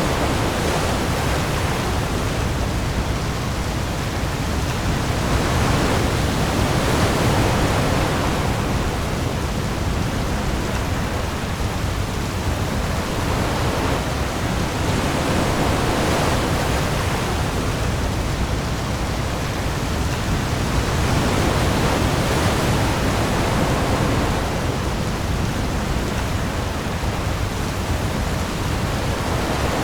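Heavy rain falling on the sea with waves: a dense, steady hiss over a deep rumble, swelling and easing every several seconds.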